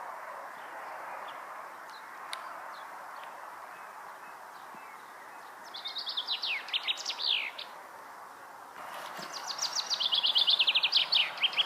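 A songbird singing twice, each song a quick run of high notes sliding downward, the second longer and louder, over a steady background hiss.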